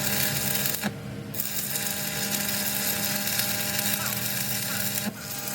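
A high-pitched handheld power tool running steadily in an axle repair workshop, stopping for a moment about a second in and dipping briefly near the end.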